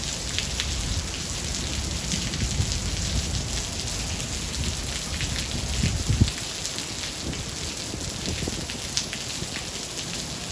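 Steady heavy rain, with many separate drops pattering. A low thunder rumble runs under it for the first half and dies away about six seconds in.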